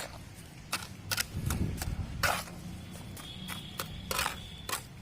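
Cement mortar being mixed by hand with a trowel: a dozen short, irregular scrapes and clicks.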